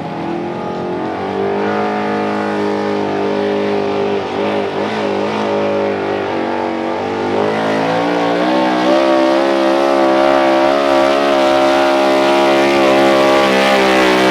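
A competition pulling rig's engine at full throttle, hauling the weight-transfer sled down the track. The pitch climbs about a second and a half in, sags briefly near the middle, then climbs again and holds high and loud through the rest of the run.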